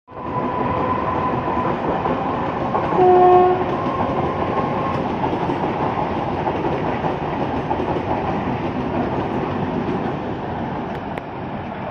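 Electric multiple-unit suburban local trains running through on the rails with a steady rumble. A short horn blast about three seconds in is the loudest moment.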